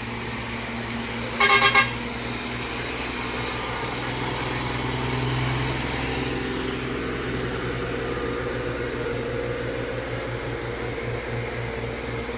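A vehicle horn gives four quick toots about a second and a half in, over the steady running of a heavy engine.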